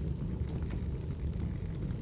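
Firewood burning: a steady low sound of the fire with scattered small crackles and pops, several a second.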